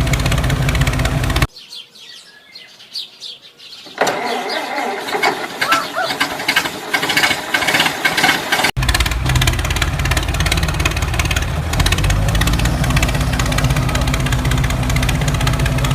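A motor running with a steady low hum, broken by sudden cuts. After a short quiet gap comes a few seconds of busier, clattery sound with faint whistles, then the hum comes back abruptly.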